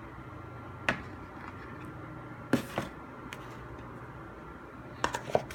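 Light taps and clicks of an iPhone retail box and its packaging being handled: one about a second in, a pair a little after two and a half seconds, and a quick cluster near the end.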